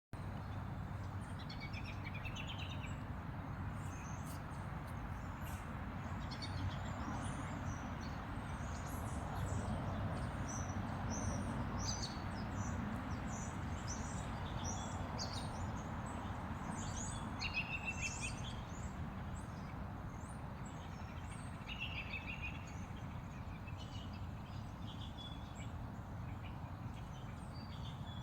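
Small birds chirping, many short high calls scattered throughout, over a steady low rumble of outdoor background noise.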